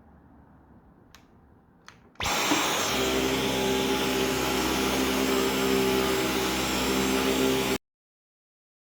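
Dyson V11 cordless stick vacuum running. After a couple of faint clicks, it starts abruptly about two seconds in, runs at a steady pitch for about five and a half seconds, then cuts off sharply.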